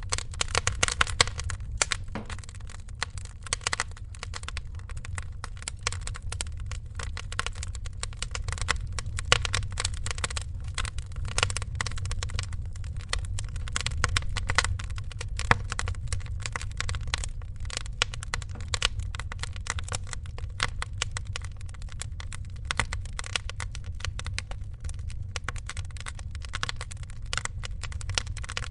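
Wood fire crackling: a dense, irregular stream of small snaps with a few louder pops, over a steady low rumble.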